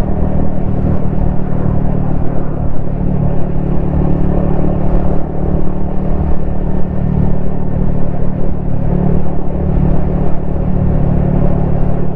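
Yamaha XSR155's single-cylinder engine and exhaust running at a steady cruise, the pitch holding level with no revving or gear changes.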